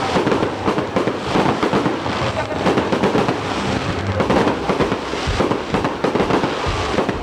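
Fireworks display going off without pause: a dense run of bangs and crackling.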